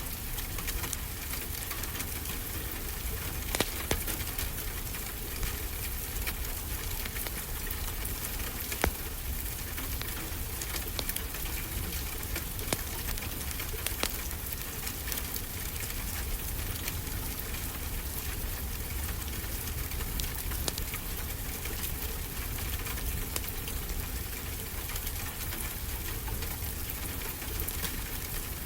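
Wood fire crackling in a fireplace: a steady hiss with sharp pops every few seconds, over a constant low rumble of ocean surf.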